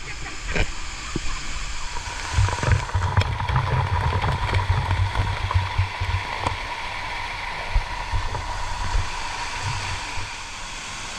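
Steady rush of a waterfall's falling water, with a low rumble coming and going for a few seconds about two seconds in.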